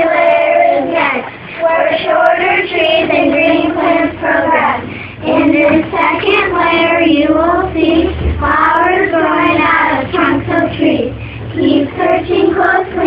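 Children singing a rhyming song together, with held notes and short breaths between phrases.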